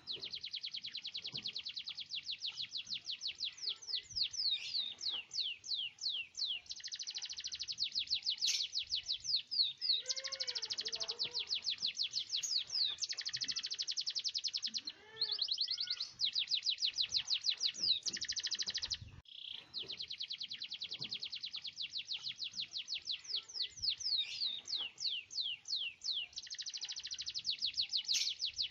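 Domestic canary singing almost without pause: long, rapid rolling trills and fast runs of repeated notes, high-pitched. The song breaks off briefly about halfway through and again a few seconds later.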